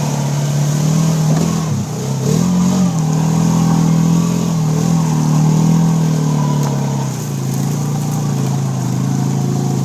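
Four-wheeler (ATV) engine running under load, its pitch dipping and climbing back about two seconds in, then holding steady.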